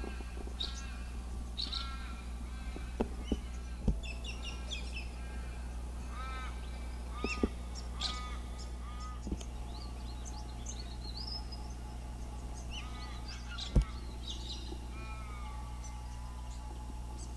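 Birds calling, with many short calls scattered throughout over a steady low hum, and a few sharp knocks, the loudest near 4 seconds in and near the end.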